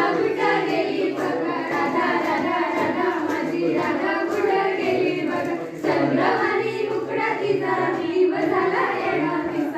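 A group of young voices singing together.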